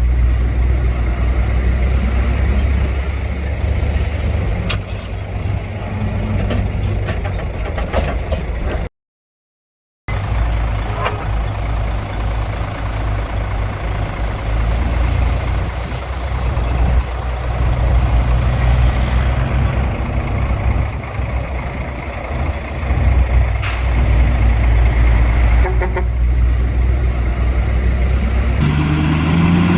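Heavy diesel earthmoving machinery running steadily under load, with a few sharp metallic knocks. The sound drops out for about a second around nine seconds in, and the engine revs up with a rising pitch near the end.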